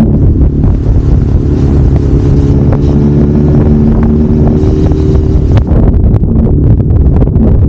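Kawasaki Zephyr 750's air-cooled inline-four engine running at a steady speed under way, buffeted by heavy wind noise on the microphone. The engine's steady note stands out from about half a second in and sinks back into the wind rush near the end.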